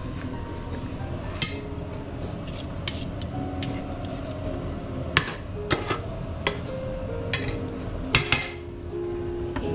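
Kitchen utensils and dishes clinking and knocking: a dozen or so sharp, irregular clicks, with a close pair of louder knocks about eight seconds in. Light background music with mallet-like notes plays under them.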